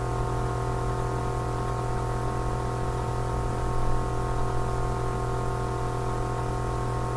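Steady electrical hum with a buzzy edge, unchanging throughout, under a faint hiss: mains hum in the recording.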